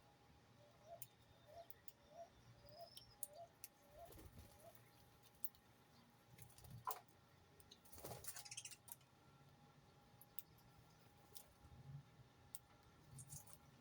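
Faint bird calls: a run of short, low notes about twice a second that stops about four and a half seconds in, over near silence with scattered faint clicks and a brief rustle about eight seconds in.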